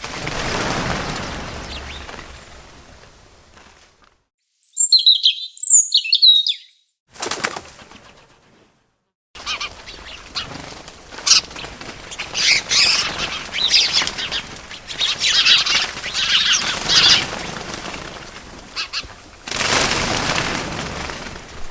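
Birds chirping in short high bursts, with wings flapping, and a swelling whoosh at the start and again near the end. Brief silent gaps fall between the chirps in the first half.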